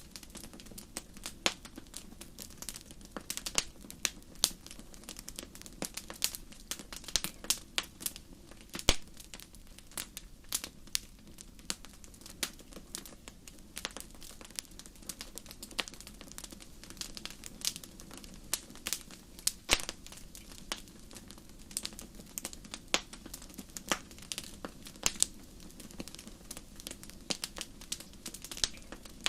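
Wood fire crackling: irregular sharp pops and snaps, several a second, over a low steady rush of burning.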